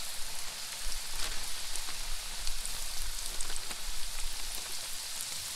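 Batter-coated pickles and fish chunks frying in canola oil, a steady sizzle with scattered small crackles, mixed with rain falling steadily.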